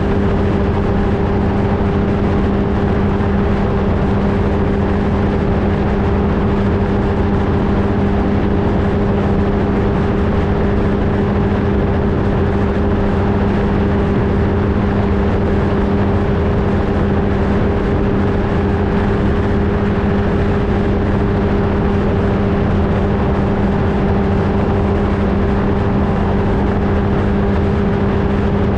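Flightstar II ultralight's engine and propeller running at a steady pitch, heard from a camera mounted on the aircraft, with wind rumble over the microphone.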